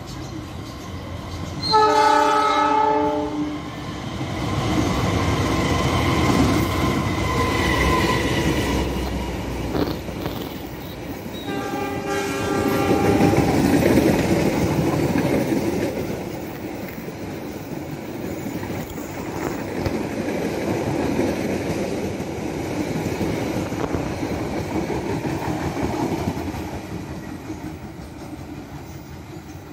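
Passenger train passing close by: the locomotive horn sounds twice, two blasts of about two seconds each roughly ten seconds apart. The coaches follow with a steady rumble and wheels clattering over the rail joints, fading as the train pulls away near the end.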